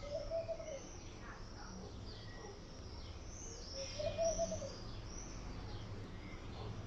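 Laughing dove cooing: two short, soft bubbling coo phrases, one at the start and another about four seconds in, while smaller birds chirp high-pitched in the background.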